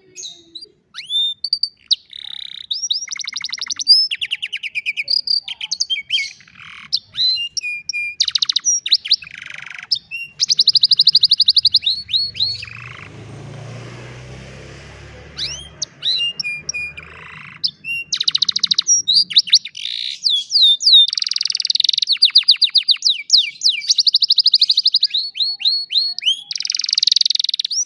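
Domestic canary singing a long, loud song of rapid trills and rising whistled notes. About halfway, the song thins out for a few seconds under a stretch of low, hissy noise.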